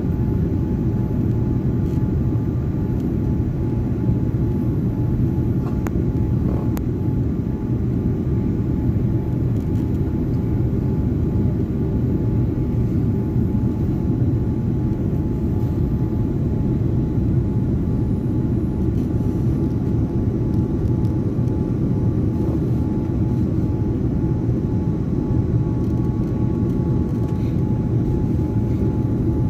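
Airliner noise heard from inside the cabin: a steady low rumble with a faint constant whine, unchanging throughout.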